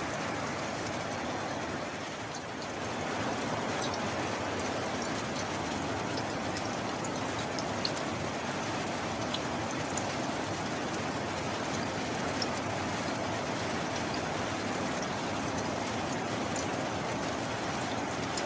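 Steady heavy rain, an even hiss with scattered small drop ticks, growing a little louder about three seconds in.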